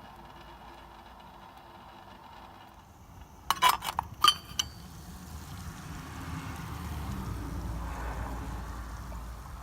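Metal camp-stove parts clinking together: a quick cluster of sharp clinks with a brief ring about three and a half seconds in. A low rumbling noise then swells and fades.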